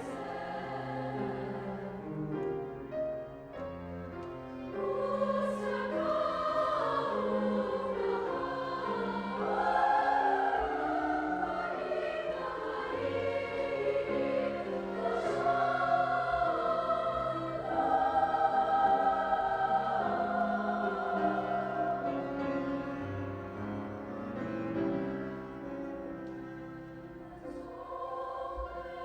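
A high school choir singing.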